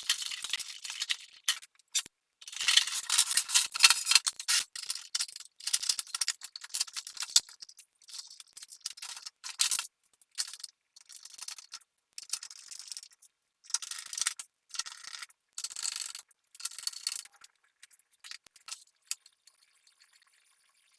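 Small hard parts rattling and clinking as they are handled, in bursts of a second or two with short pauses between them, fading near the end.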